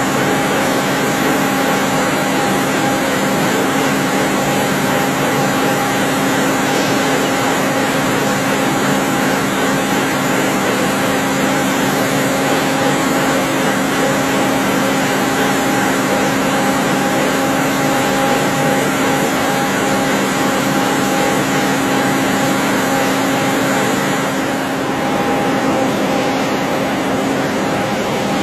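CNC lathe running steadily: a constant machine hum with a few held tones over a loud hiss of spindle and cutting noise, easing slightly near the end.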